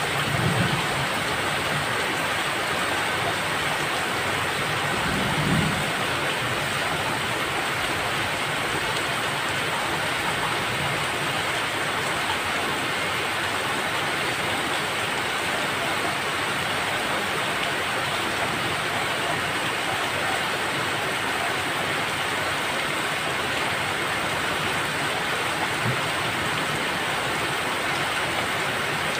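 Steady heavy rain, a dense even hiss of drops. Brief low rumbles swell under it just after the start and again about five and a half seconds in.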